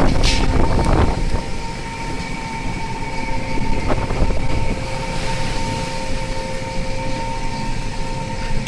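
Steady mechanical rumble of a longline fishing vessel's engine and deck machinery, with a steady whine of two tones over it and a few sharp knocks in the first second.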